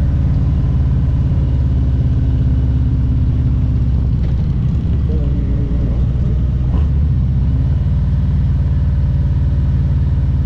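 Harley-Davidson Road Glide Special's Milwaukee-Eight 114 V-twin running under way on the road, a steady low engine note that wavers briefly about halfway through.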